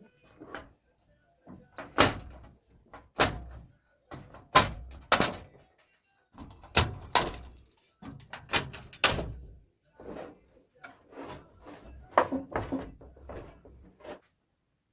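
A series of sharp, irregular knocks and clacks of hard objects being handled, about one or two a second, with short quiet gaps between them.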